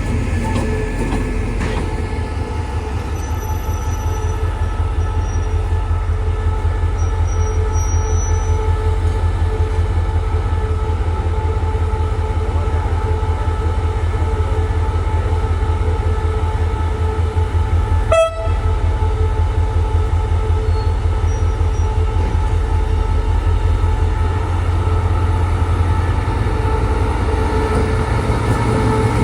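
Diesel locomotive engine running with a steady low throb.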